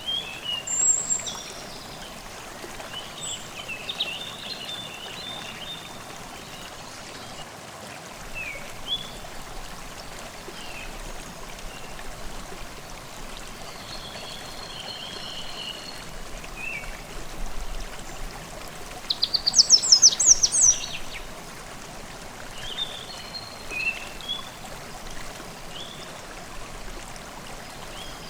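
Forest stream babbling steadily, with birds singing short calls and chirps over it. The loudest is a rapid trill of high notes about two-thirds of the way in.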